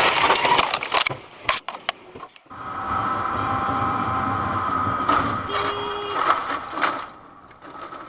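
Dashcam car audio: a loud burst of noise with sharp clattering knocks in the first two seconds, then, after a cut, steady car engine and road noise with a few sharp knocks.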